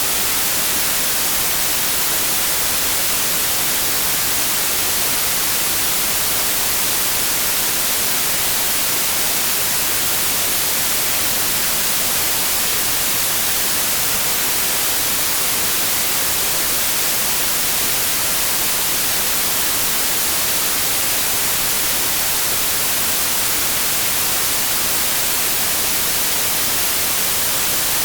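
Steady synthetic white noise: an even, unchanging hiss, brightest in the treble.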